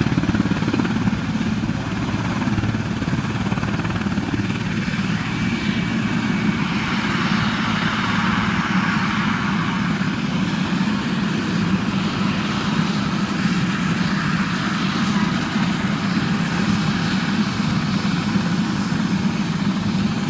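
A large helicopter running steadily close by, its rotor blades making a rapid, continuous chop over turbine noise as it comes in to land.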